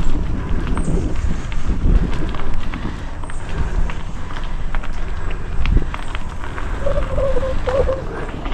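Mountain bike rolling down a dirt trail: tyres crunching, the bike rattling and clicking over bumps, and wind buffeting the microphone. A brief wavering squeak about seven seconds in.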